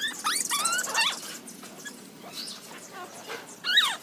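Young puppy crying in high, squealing whimpers, a quick run of them at the start and one more near the end, as it wants to nurse.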